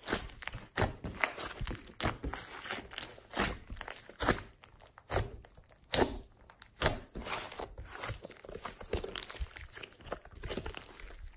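Slime being squeezed and kneaded by hand, giving dense, irregular crackling clicks and pops.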